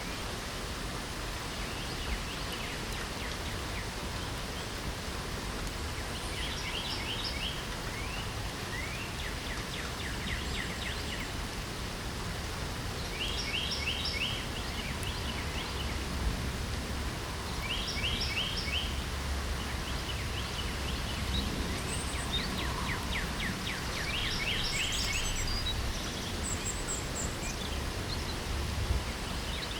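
Steady rain hiss with songbirds singing over it: short phrases of rapid, repeated notes come every few seconds, with a few higher, thinner notes near the end.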